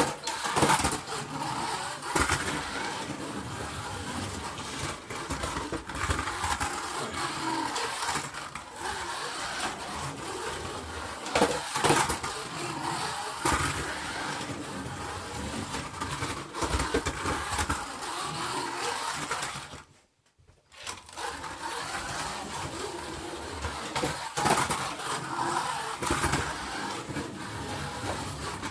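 Trucks running and driving, a steady noisy engine and road sound with scattered knocks. It drops out briefly about twenty seconds in, then resumes.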